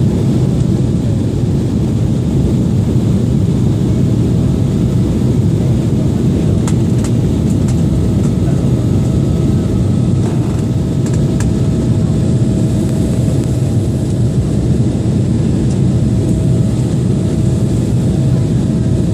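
Steady, even engine and air noise of an airliner, with a faint steady hum over it and a few light clicks around the middle.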